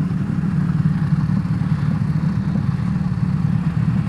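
Royal Enfield Himalayan 450's single-cylinder engine running steadily while riding, with an even rush of wind and road noise over it.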